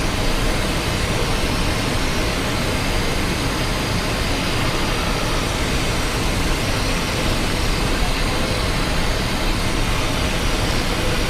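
Steady cockpit noise of a Cessna Citation XLS business jet on approach: an even rush of airflow and engine noise that holds constant throughout.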